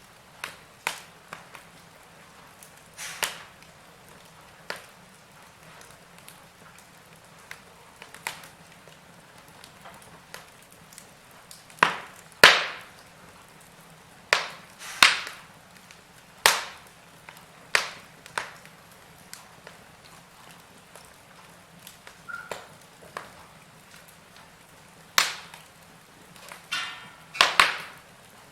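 Wood fire in a fireplace crackling, with irregular sharp pops every second or so over a faint steady hiss. The loudest pops come in a cluster about halfway through and again near the end.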